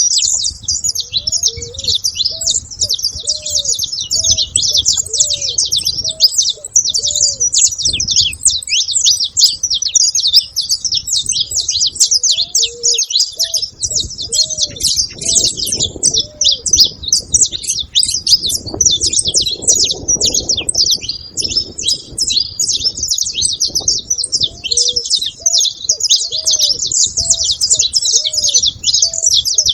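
A flock of saffron finches chattering together: a dense, unbroken stream of many overlapping high chirps.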